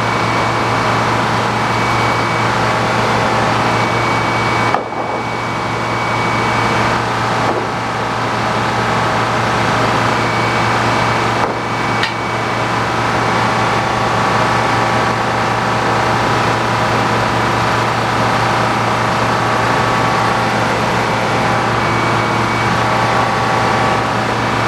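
Sawmill running steadily with a loud engine drone, broken by a short knock about five seconds in and another around eleven and a half seconds.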